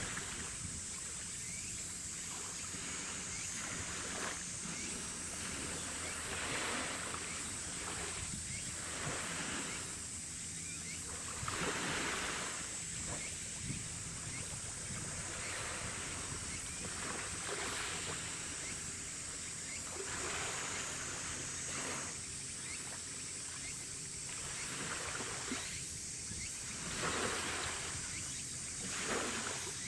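Harbour water washing and slapping against the quay in repeated swells every few seconds, with wind, over a low steady hum.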